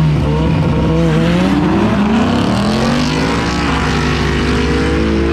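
Two cars drag racing from a street launch, one of them a Ford Mustang, engines revving hard at full throttle. Their pitch climbs through the middle and eases near the end as they pull away.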